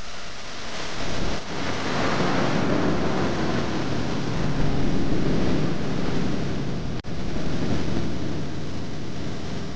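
Steady rushing spray of water hosing down an engine that was flooded, cutting out for an instant about seven seconds in.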